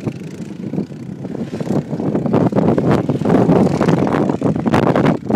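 A vehicle running on the sand hills, getting louder about two seconds in and staying loud.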